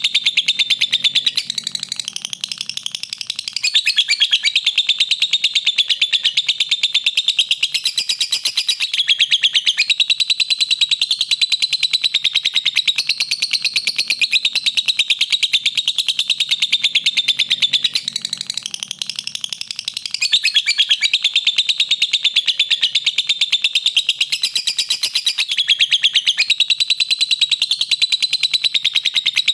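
Lovebird singing: a fast, unbroken stream of shrill, high chirps and trills, easing briefly about two seconds in and again about two-thirds of the way through.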